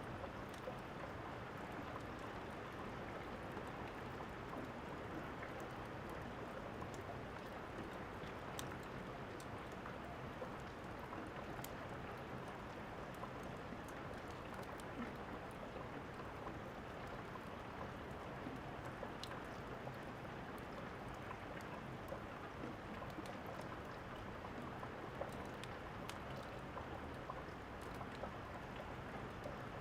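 Steady rain falling, with a few sharp, isolated crackles from a wood fire scattered through it.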